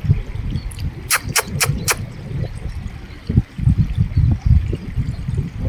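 Gusty low rumble of wind buffeting the microphone outdoors, with four quick clicks a little over a second in.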